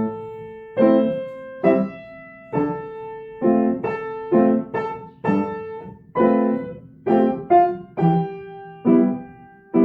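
Piano played slowly with both hands: chords and left-hand octaves struck about once a second, with a few quicker notes in between, each ringing on and fading before the next.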